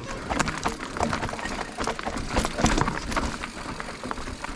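Mountain bike on rough, rocky dirt trail: a steady rush of tyre and trail noise with many irregular clicks, knocks and rattles.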